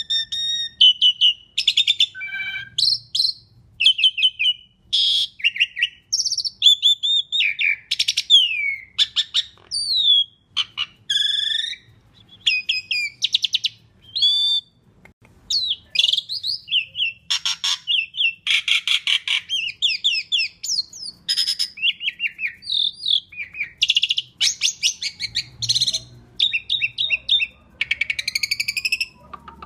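Asian pied starling singing a fast, nearly unbroken and varied song of short whistles, chirps and rattles, with only brief pauses between phrases.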